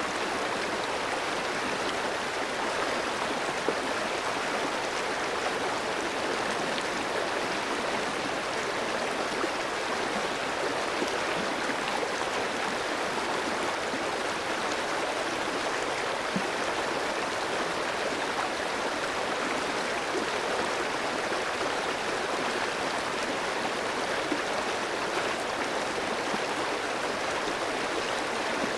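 Clear shallow stream flowing steadily over rocks, a continuous rushing babble with small splashes here and there.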